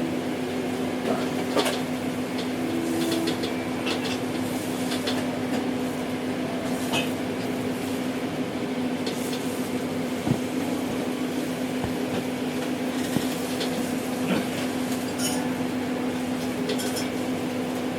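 Dishes and glasses clinking now and then over a steady, even hum.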